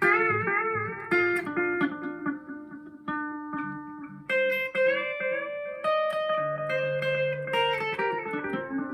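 Squier Classic Custom Telecaster played through a Vox AV15 valve amp with the delay effect turned all the way up: a run of picked notes and chords, the delay's repeats adding a lot of effect.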